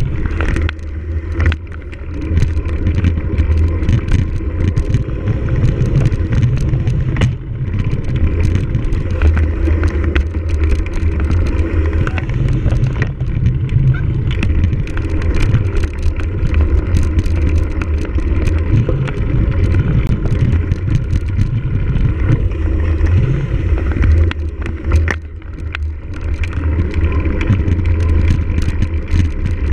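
Cyclocross bike being raced over rough ground, its frame and parts rattling with many short clicks and knocks over a loud, unbroken rumble of wind on the microphone.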